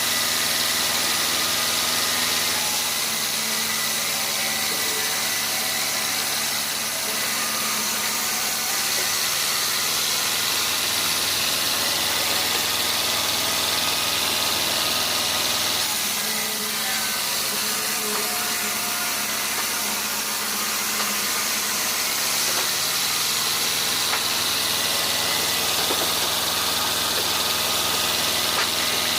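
Sawmill machinery engine running steadily under a constant hiss, shifting slightly in pitch a few times.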